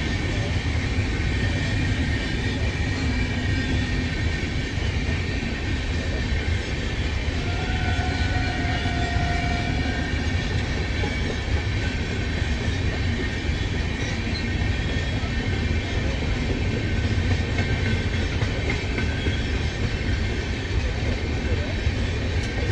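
Train running steadily along the track: a continuous low rumble of wheels on rails, with no horn or pause.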